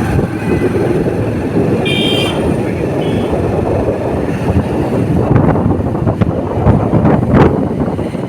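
Motorcycle ride: steady engine and road noise, with a short horn toot about two seconds in and a shorter one a second later. Wind buffets the microphone in the second half.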